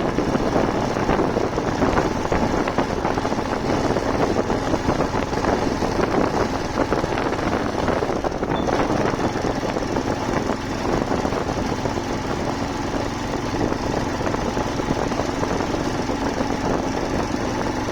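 Motorcycle engine running steadily while riding, under a heavy rush of wind and road noise.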